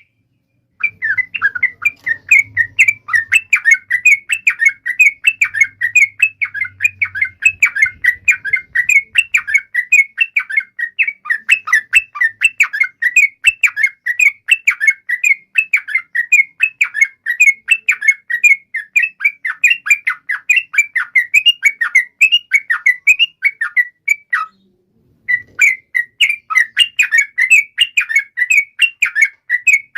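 Yellow-vented bulbul (trucukan) song: a long, fast, continuous run of short chattering notes, breaking off briefly near the end and then going on.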